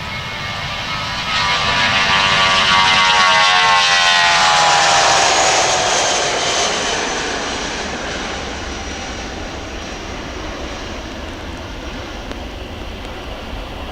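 Airbus A320's IAE V2500 jet engines at takeoff power passing close by. The roar swells in the first couple of seconds, its whine drops in pitch as the jet goes past, then it fades to a steady distant rumble.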